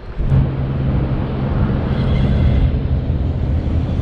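Strong wind buffeting the microphone with a rumbling roar. A steady low hum starts abruptly just after the beginning and holds.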